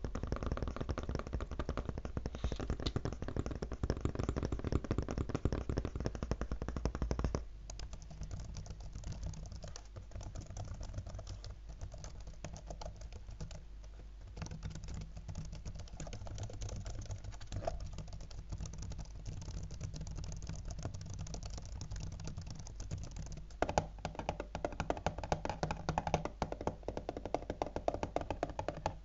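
Rapid fingertip tapping on a laptop, a dense stream of quick clicks that turns softer about seven seconds in and louder again near the end.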